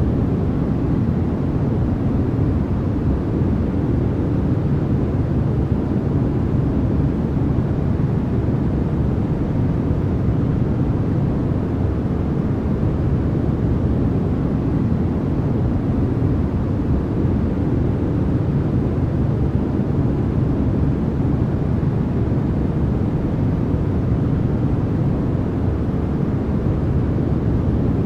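Continuous synthetic noise from a sleep noise track: an even, unchanging rush that is deep and full at the low end with little treble.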